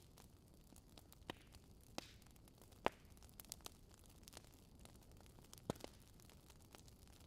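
Wood fire crackling: burning logs giving irregular sharp pops and snaps over a faint steady hiss, with the loudest pop a little under three seconds in and another strong one near six seconds.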